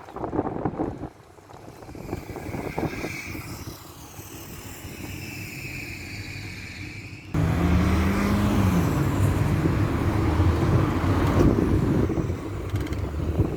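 Old Ford minibus on the move, heard from inside: engine and road noise. About seven seconds in it suddenly gets louder, a steady low engine drone with a low tone that holds and then dips in pitch.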